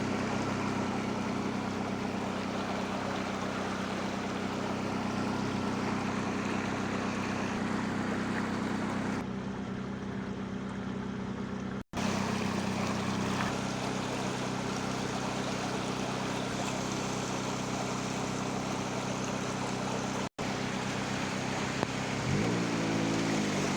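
Floodwater rushing through a street, a steady noise with a low hum under it that breaks off briefly twice.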